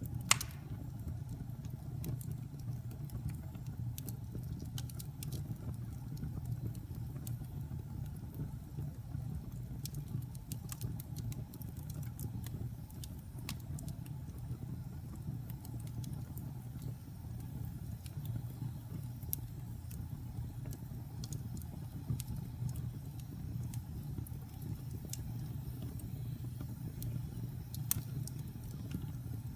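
Wood fire burning in a fireplace: a steady low rumble of flames with scattered small crackles and pops, and one sharp louder snap about half a second in.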